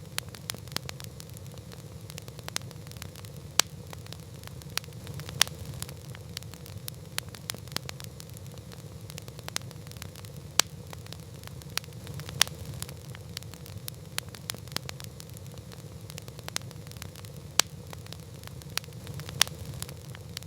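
Campfire crackling: a wood fire's irregular sharp pops and snaps, a few much louder than the rest, over a steady low rumble of the burning.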